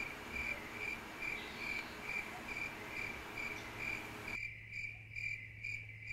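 A cricket chirping steadily, about two chirps a second, over a faint, steady low hum.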